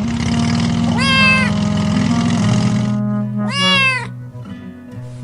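A cat meowing twice, about a second in and again past the middle, each call about half a second long, over background music.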